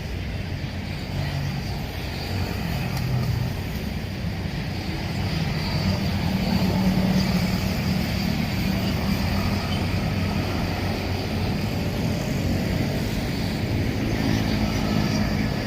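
Road traffic: vehicle engines running and passing in a steady low rumble that grows a little louder around the middle.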